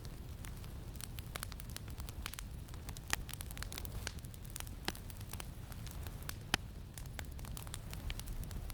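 Campfire crackling, with irregular sharp pops, the loudest about three seconds and six and a half seconds in, over a steady low wind rumble.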